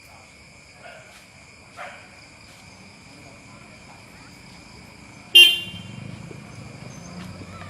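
A vehicle horn gives one short, loud toot about five seconds in, and a vehicle engine runs low and steady after it. Steady high-pitched insect chirring runs underneath.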